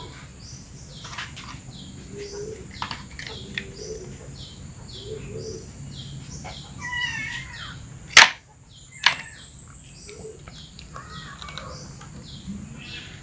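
Small birds chirping in short, regularly repeated calls over a steady high-pitched tone, with two sharp clicks about a second apart around two-thirds of the way through.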